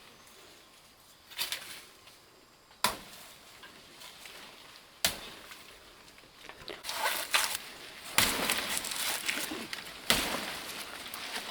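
Four sharp knocks spaced about two to three seconds apart, with rustling handling noise building from the middle onward.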